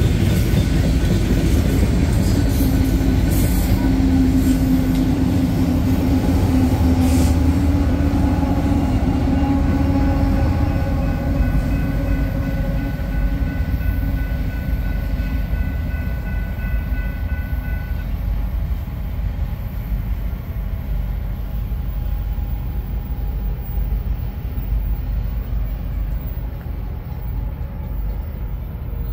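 Rear distributed-power diesel locomotives of a loaded coal train, an EMD SD70ACe and a GE ES44AC, rumbling past over the rails with the wagons, then fading as they move away. A grade-crossing warning bell rings steadily and stops about two-thirds of the way through as the train clears.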